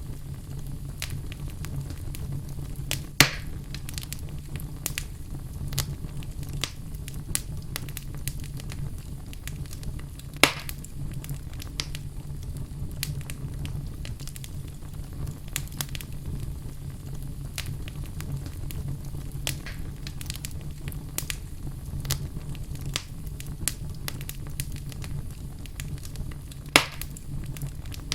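Wood fire burning in a fireplace: a steady low rumble of flame under frequent scattered crackles, with three loud sharp pops, about 3 seconds in, about 10 seconds in and near the end.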